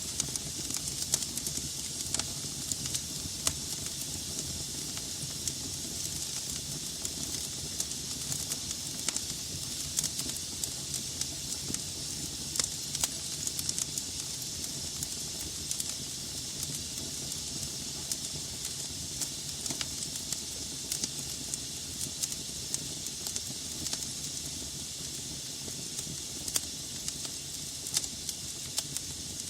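Wood fire burning in a fireplace: a steady hiss with irregular sharp crackles and pops from the burning logs.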